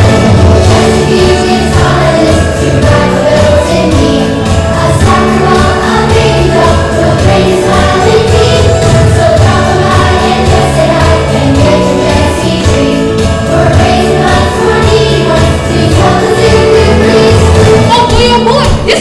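A choir singing a Christmas song over full instrumental backing with a strong bass line.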